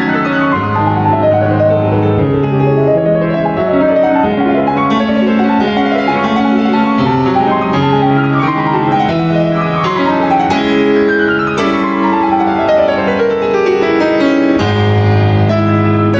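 Background piano music, with several quick falling runs of notes in the middle.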